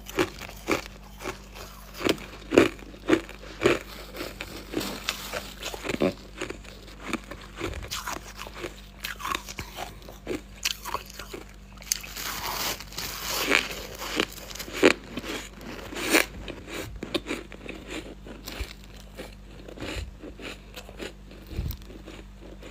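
Close-up crunching and chewing of freezer frost and ice, a run of sharp crunchy bites one or two a second, with a longer rasping stretch about twelve seconds in.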